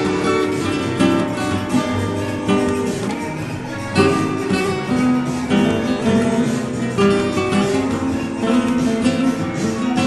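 Acoustic guitar music, plucked and strummed in a flamenco style.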